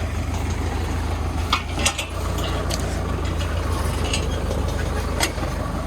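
Tractor engine running steadily while towing a drip-tape laying machine, with a few sharp clicks and knocks from the rig.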